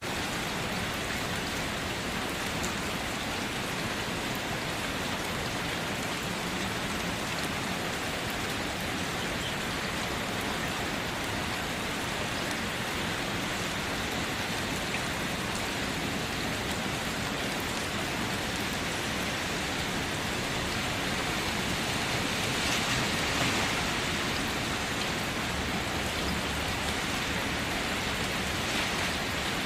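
Steady rain: an even, continuous hiss with faint scattered drop ticks, swelling slightly a little over twenty seconds in.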